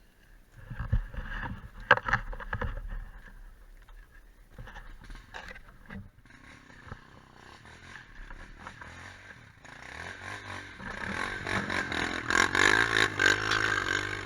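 Quad bike engine: knocks and clatter in the first few seconds, then an engine grows louder from about ten seconds in, its pitch rising and falling as it revs.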